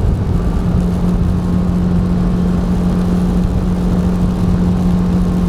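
Motor vehicle driving along: a steady engine drone with a constant hum and low road rumble.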